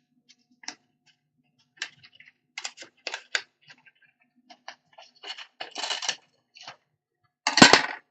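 Handling of paper and a plastic bottle during a craft: scattered small clicks and rustles, a longer rustle about six seconds in, and a louder crinkle near the end.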